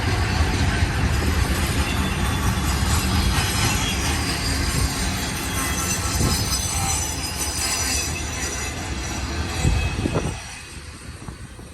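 Long freight train rolling past, its steel wheels rumbling on the rails with a high squeal. The sound drops off sharply about ten seconds in.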